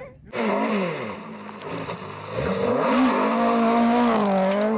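Rally car engine under hard driving. The pitch falls away, climbs again about two seconds in, and then holds high with a slight wobble.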